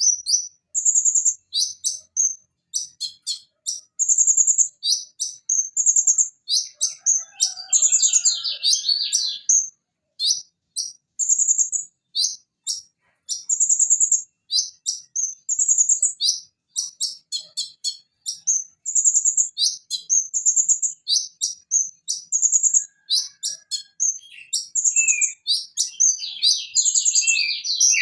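Van Hasselt's sunbird (konin, Leptocoma sperata) singing a fast run of high, sharp chirps and short trills with brief pauses, busier and more scratchy twice, in the middle and near the end.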